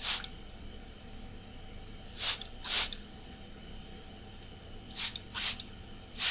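Trigger spray bottle spritzing water in short hissing bursts, about six in all and mostly in quick pairs.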